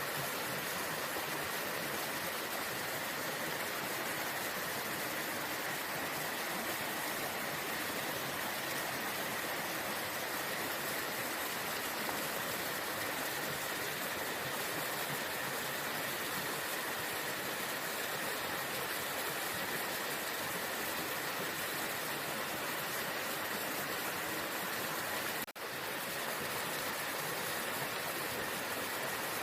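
Waterfall: a steady, unbroken rush of falling water, with a split-second dropout near the end.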